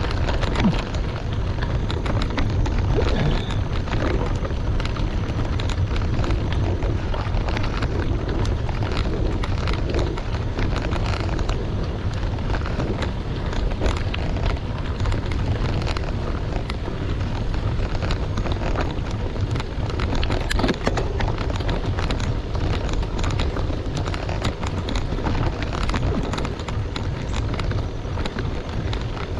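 Bicycle tyres rolling over a gravel road, a constant crunch of small stones crackling and popping under the wheels, with wind buffeting the microphone.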